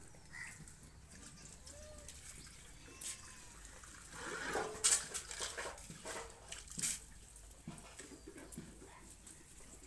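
Sojat goat kids bleating in short calls, loudest in a cluster about four to five seconds in, with scattered clicks and knocks.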